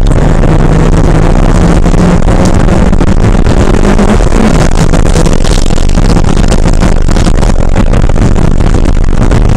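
Porsche 968's 3.0-litre four-cylinder engine running hard at race pace over heavy rushing noise. The engine note climbs slowly, then drops sharply a little over four seconds in before settling again.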